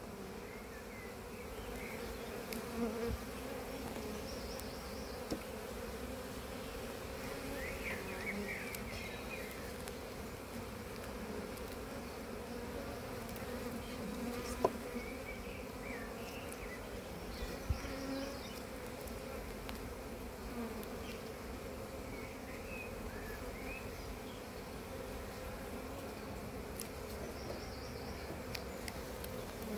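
Honey bees from an opened hive buzzing steadily in a continuous hum. Two brief sharp knocks stand out, about halfway through and a few seconds later.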